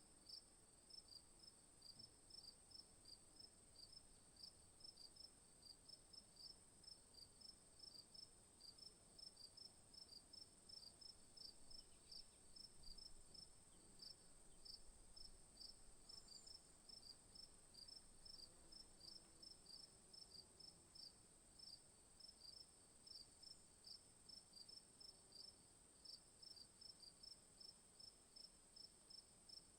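Quiet insect chorus: a steady high-pitched drone with evenly repeated short chirps, a few per second, like crickets.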